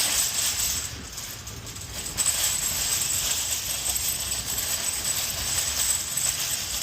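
Continuous jingling metal rattle over a low rumble, quieter for about a second near the start.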